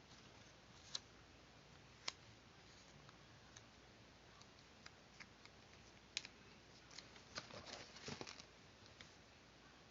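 Faint sounds of paper being handled and cut by hand in paper-craft work: a sharp click about a second in, another at two seconds and one near six seconds, then a quick run of clicks and rustling between about seven and eight and a half seconds.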